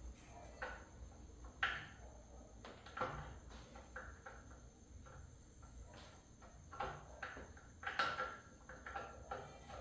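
Irregular light clicks and knocks of metal engine parts and hand tools being handled during engine assembly, with two sharper knocks, one about one and a half seconds in and one near the end.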